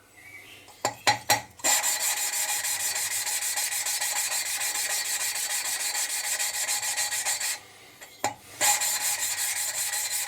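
Valve being hand-lapped into its seat in a Kubota three-cylinder diesel head: grinding paste rasping between valve and seat in a fast, even back-and-forth rhythm. It stops briefly near the end and starts again, with a few knocks about a second in.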